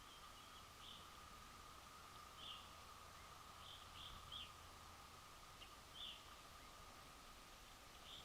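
Faint, high, short bird chip calls, coming irregularly every second or two, over a faint steady hum.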